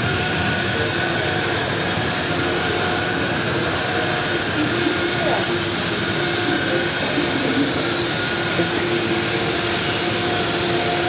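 Steady din of a crowded exhibition hall: many visitors' voices blended into one murmur, with the running of HO-scale model trains and a few faint steady tones.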